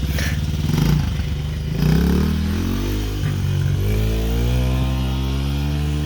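Dirt bike engine revving as the bike pulls away: its pitch rises about two seconds in, dips briefly, then climbs steadily near the end.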